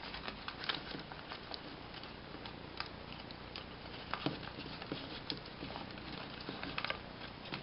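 Sheet of paper being opened out and refolded by hand along existing creases: faint scattered crinkles and soft ticks of paper.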